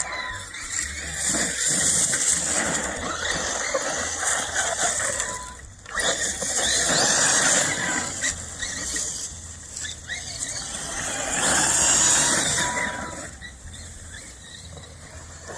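Brushless electric motor of a 1/7-scale RC monster truck whining as it speeds up and eases off several times, with its tyres scrabbling over dirt.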